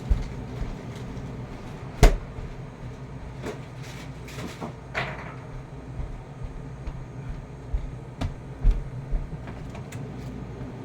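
Frozen food packages and boxes being handled and set down while a freezer is emptied: scattered knocks, clicks and rustles, with one sharp knock about two seconds in.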